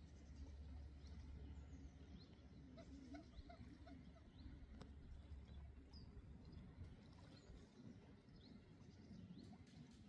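Quiet outdoor ambience: birds chirping faintly now and then over a low rumble that fades about two-thirds of the way through.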